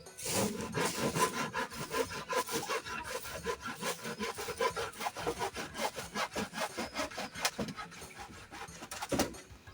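Hand saw cutting wood in quick, even back-and-forth strokes, stopping shortly before the end.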